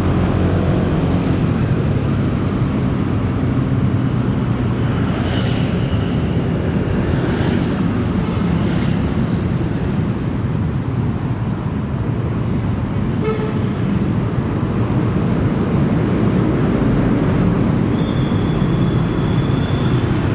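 Motorcycle riding in heavy city traffic: engines of the motorcycle and surrounding vehicles running steadily, with several vehicles rushing past a few seconds in and a steady high tone sounding near the end.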